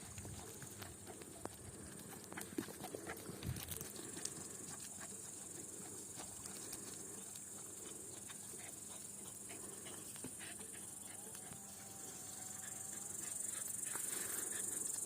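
Jack Russell terrier moving about, its paws making scattered light taps and patter, busiest in the first few seconds, over a steady high hiss.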